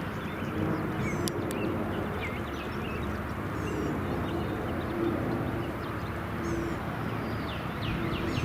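Small birds chirping in short, quick calls again and again over a steady low rushing noise with a faint hum.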